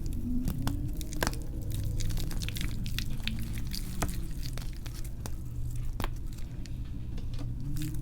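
Wet reformed gym chalk being crushed by hand, soft squishing with many small crunchy crackles scattered throughout, played back sped up.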